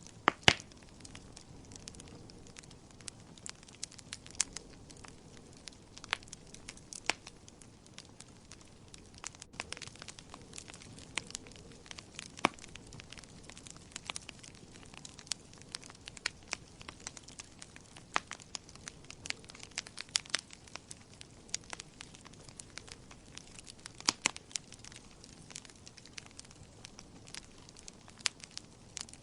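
Wood fire crackling in a fireplace: irregular sharp pops and snaps over a soft, steady hiss, with a couple of louder pops, one near the start and one about three-quarters of the way through.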